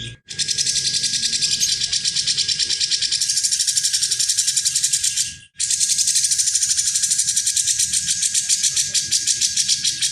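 A bird's harsh, fast rattling call: an even, high chatter of about ten pulses a second in two long bouts, broken briefly about five and a half seconds in.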